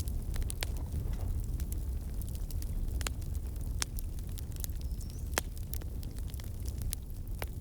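Fire burning in a fireplace: a steady low rumble with scattered sharp crackles and pops, the loudest about three seconds in, about four seconds in, and a little over five seconds in.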